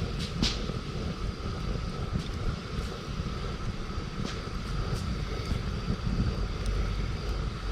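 Wood campfire crackling, with a few sharp pops from the burning wood over a steady low rumble.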